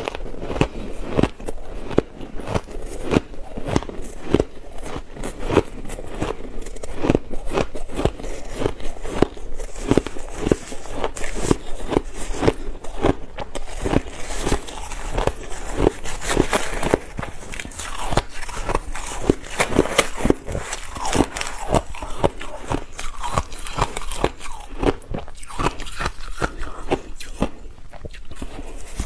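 Ice being bitten and chewed close to the microphone: a continuous run of crisp crunches and crackles, a few a second.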